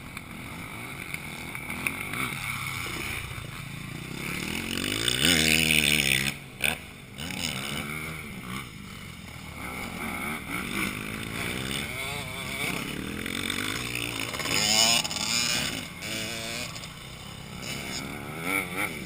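Motocross bikes' engines revving up and down as they ride past on the track, loudest about five seconds in and again near fifteen seconds.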